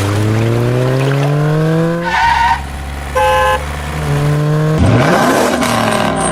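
A vehicle engine revving, its note rising steadily for about two seconds, followed by two short horn-like beeps, then a rough, noisy burst of engine sound near the end.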